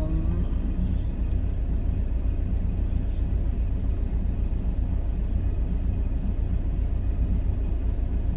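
Semi-truck's diesel engine idling, a steady low rumble with a fast even pulse, heard inside the cab.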